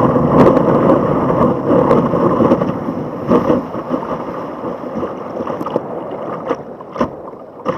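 Rushing surf and water around a sea kayak with wind buffeting the microphone, loudest at first and easing off over the last few seconds, with a few short sharp knocks.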